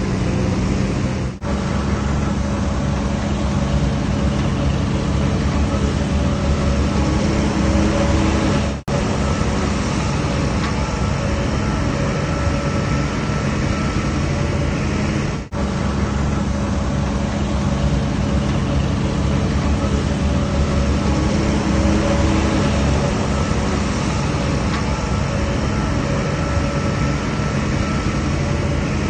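DH17C3PRO bulldozer's diesel engine running steadily with a low, even drone, broken by three brief gaps about a second and a half in, near nine seconds and near fifteen seconds.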